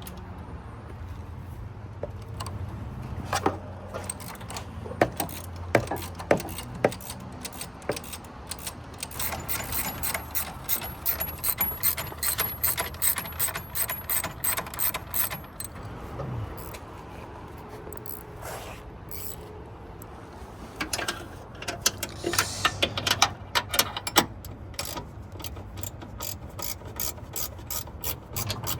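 Hand socket ratchet clicking in quick runs as bolts are turned out, with scattered metal knocks and clunks of tools between runs.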